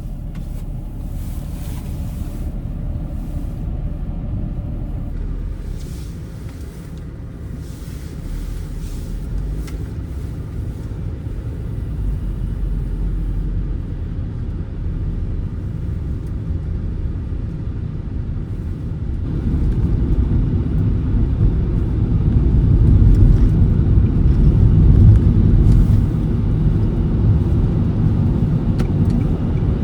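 Nissan Serena minivan driving on the road: a steady low rumble of tyres and engine that grows louder about twenty seconds in.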